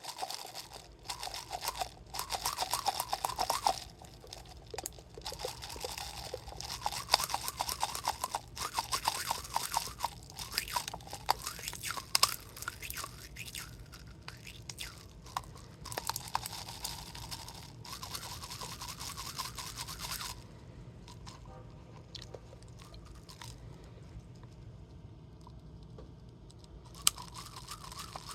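Partly frozen plastic water bottle being squeezed and handled: dense, irregular crinkling of the plastic and crunching of the ice inside. It stops suddenly about two-thirds of the way in, goes quiet for several seconds, then starts again near the end.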